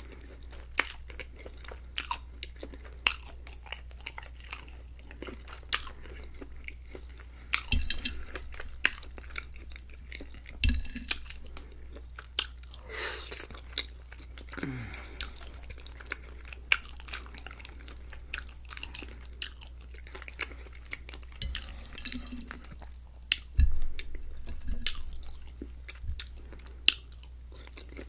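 Close-up chewing of mouthfuls of creamy chicken alfredo pasta: wet mouth sounds with frequent sharp clicks and smacks, and a few louder bumps.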